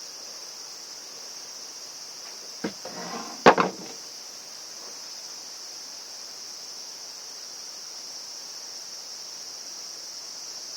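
Steady high-pitched chorus of insects. About three seconds in there are two sharp clicks with a short rustle between them, the loudest sounds here.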